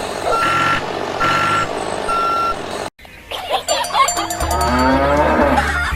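A vehicle's reversing alarm beeping about once a second over engine noise; then, after a sudden cut, a cow mooing as background music with a steady bass beat comes in.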